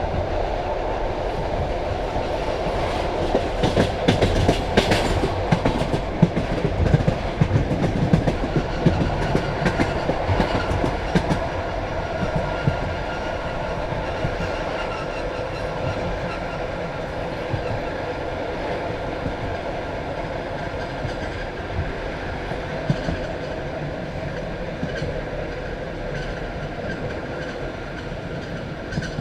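Passenger train carriage rolling on the track, its wheels clattering in quick clicks over rail joints and points for several seconds. The clatter then gives way to a smoother, gradually quieter rumble as the train slows into the station.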